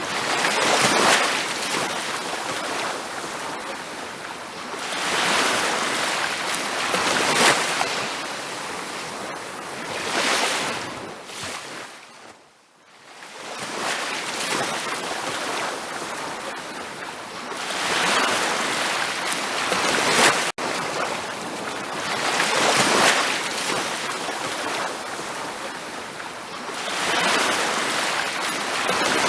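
Ocean surf on a beach: waves washing in and breaking in repeated swells every few seconds. About halfway through the sound briefly fades almost to nothing, then builds again.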